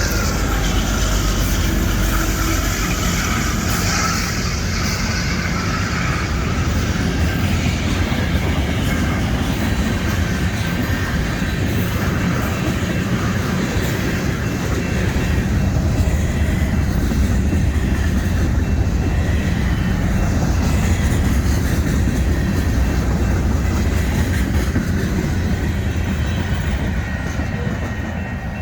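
Union Pacific train's cars rolling past: a steady rumble and rattle of wheels on rail.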